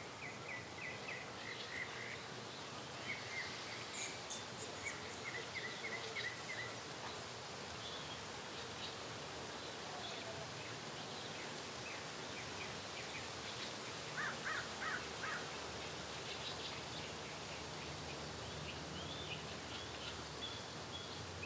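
Small birds chirping in short, rapid series of notes over a steady outdoor background hiss, with a louder run of chirps about two-thirds of the way through.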